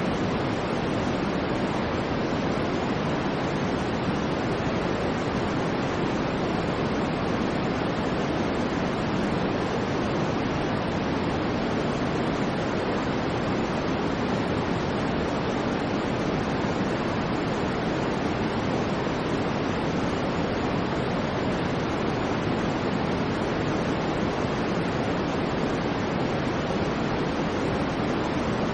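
Continuous white noise: an even, unchanging hiss with no swells or breaks, fuller in the low-middle range than at the top.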